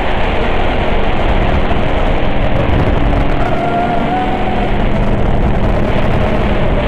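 QAV-R FPV racing quadcopter's motors and propellers running, heard as a steady rushing noise with a faint wavering whine in the middle, mixed with wind on the microphone.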